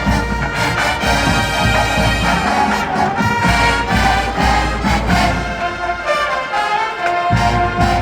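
Marching band playing a brass-led TV theme arrangement, with trumpets and trombones holding notes over drums and low brass. The low drums and bass drop out for about a second near the end, then come back in.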